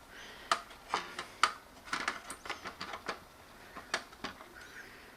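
Light, irregular clicks and knocks of a monitor stand's base being handled while its attaching screw is tightened by hand.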